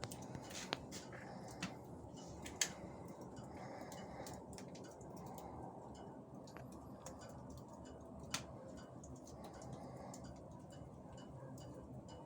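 Fire in a fireplace-barbecue crackling under shish kebab as it roasts: a steady low hiss with irregular sharp pops and clicks.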